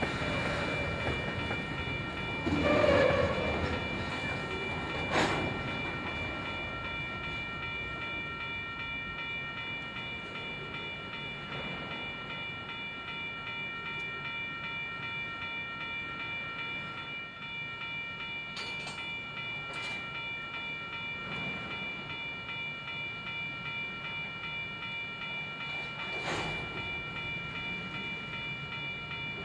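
EMD diesel switching locomotives working a rail yard: steady engine and rolling-stock noise with a constant high whine, a louder swell about three seconds in, and sharp metallic knocks, the loudest about five seconds in and another near the end.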